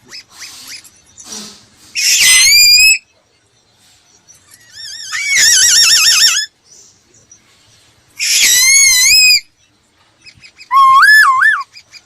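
Laughingthrush singing: four loud, whistled phrases of about a second each, separated by short pauses. Each phrase warbles rapidly up and down in pitch, and the last one is lower, with slow looping rises and falls.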